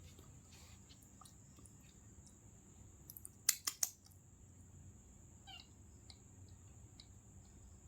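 Steady high-pitched insect trill, like a cricket, with a quick run of sharp clicks about three and a half seconds in and a brief falling chirp a couple of seconds later.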